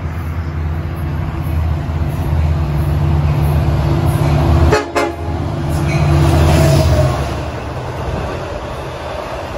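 Long Island Rail Road diesel locomotive arriving at the platform and sounding its horn, loudest around the middle with a short break about five seconds in, over the engine's low drone. In the last couple of seconds it eases into the quieter rumble of bilevel coaches rolling past.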